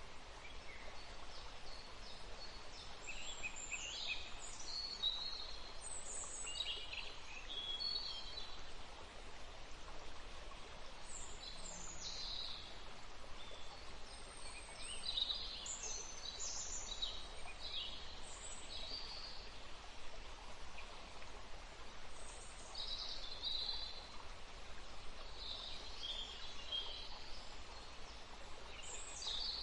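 Wild birds chirping and calling in short, high-pitched phrases, scattered throughout, over a steady background hiss.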